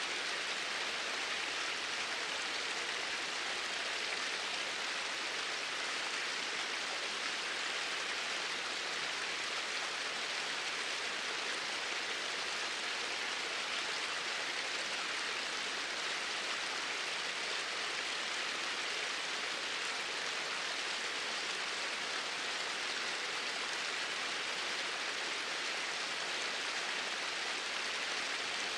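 Flowing water: a steady, even rush with no change in level.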